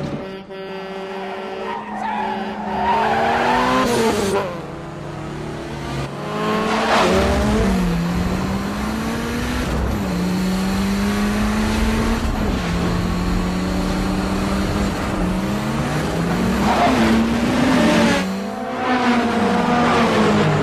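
Car engines running hard at speed, their pitch climbing and dropping again and again as they rev and shift. Several cars whoosh past in quick sweeps, about 4 and 7 seconds in and again near the end.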